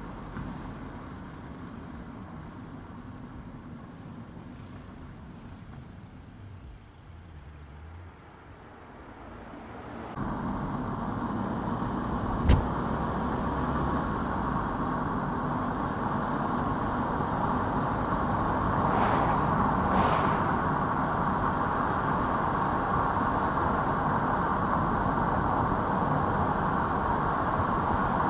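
A car driving, with a steady rush of tyre and road noise. The noise jumps abruptly louder about a third of the way in and stays up. One sharp knock comes near the middle.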